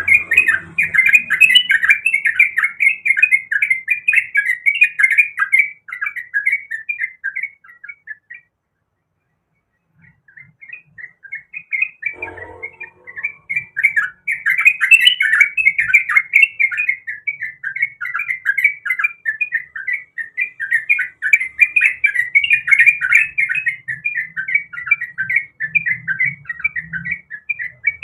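Yellow-vented bulbul (trucukan) singing a fast, unbroken run of loud chattering notes, with a short break about eight seconds in.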